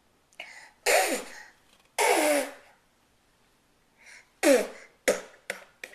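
A young child making silly breathy noises with her voice: two long loud bursts with falling pitch, then another after a pause and a quick run of short ones near the end.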